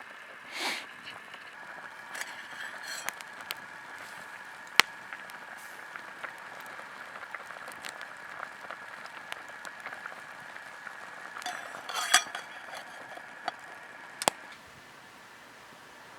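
Camp gear being handled: scattered sharp clinks and knocks with bursts of rustling, over a steady high-pitched hum that stops near the end.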